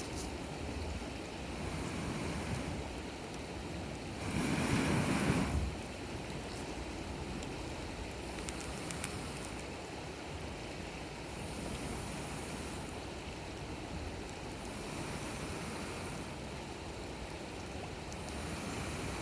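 Wood campfire burning with faint scattered crackles, under steady wind noise on the microphone that swells in gusts, the strongest for about a second and a half some four seconds in.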